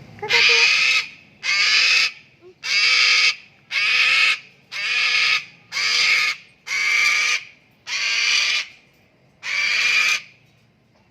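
Cockatoo screeching: nine loud, harsh screams of under a second each, about one a second, with a slightly longer pause before the last.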